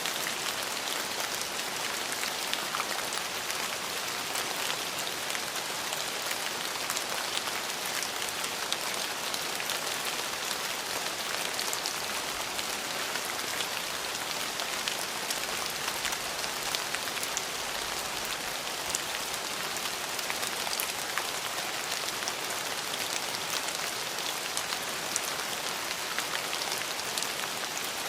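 Steady rainfall: an even hiss of rain with many small individual drop taps on a hard surface.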